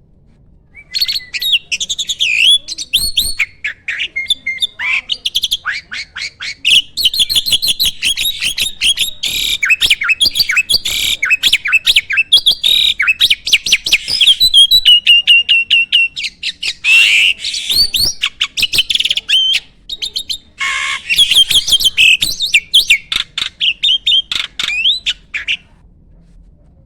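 A jalak (starling) singing a long, varied song of rapid chirps, whistles and harsh squawky notes, packed with the mimicked fill-in phrases that keepers call isian. It pauses briefly a couple of times and stops near the end.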